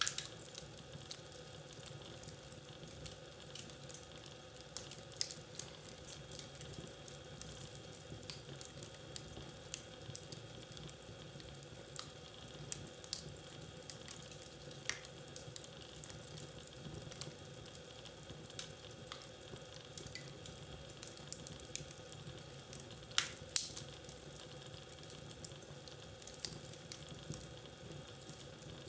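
Fire burning in a fireplace, with a steady soft hiss and frequent sharp crackles and pops at uneven intervals; the loudest pop comes about 23 seconds in.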